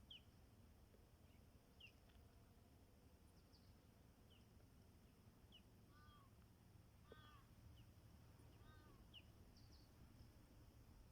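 Faint bird calls outdoors: one bird repeats a short falling chirp every couple of seconds, and another gives three arched calls near the middle.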